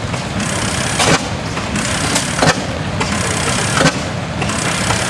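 1900 12 HP Reid oil field engine running slowly, firing with a sharp exhaust pop about every one and a half seconds, three times, over a steady background noise.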